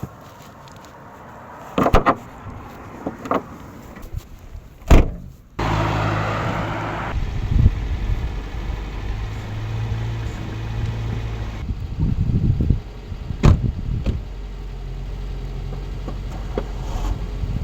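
A few clunks, then the Mitsubishi Colt 1.5i's engine starts about five and a half seconds in and settles into a steady idle, with another clunk like a car door shutting partway through.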